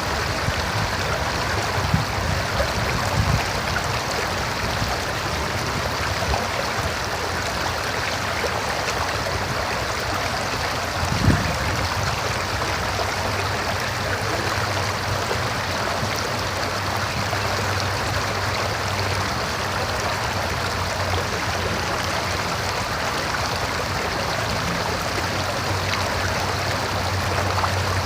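River water running over rocks, a steady, even rush of flowing water. A few brief low thumps come through, the clearest about eleven seconds in.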